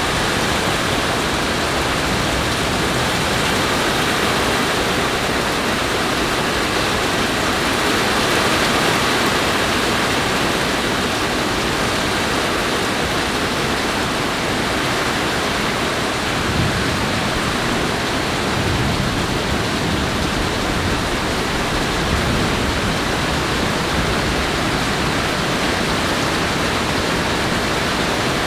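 Heavy rain falling during a thunderstorm: a steady, even rushing noise with no break.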